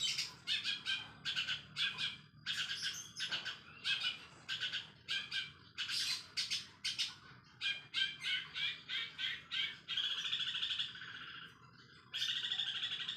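Long-tailed shrike singing fast: a rapid string of high chirps and trills imitating Eurasian tree sparrows, broken by two longer buzzy rattles about ten and twelve seconds in.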